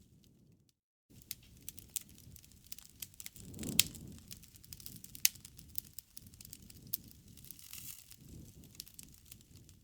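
Bonfire burning: irregular sharp crackles and pops from the burning wood over a low rumble of flames, with the two loudest pops about four and five seconds in. The sound cuts out briefly near one second in.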